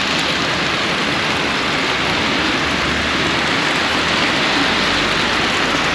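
Steady rain falling, a shower that is picking up.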